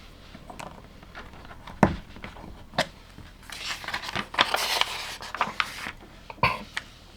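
Plastic LEGO pieces being handled: a sharp click about two seconds in and another near three, then a couple of seconds of small pieces rattling and rustling, and a knock near the end.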